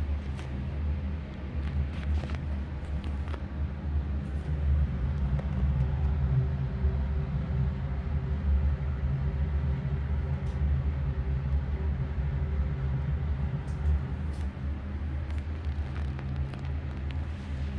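Panasonic FV-20TGU5 ceiling exhaust fan running, a steady low motor hum with a rush of air; a faint higher tone joins in for several seconds in the middle.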